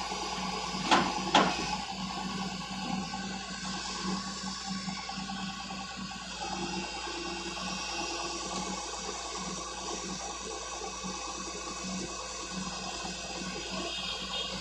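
JCB 205 excavator's diesel engine running steadily under a hiss, with two sharp knocks about a second in.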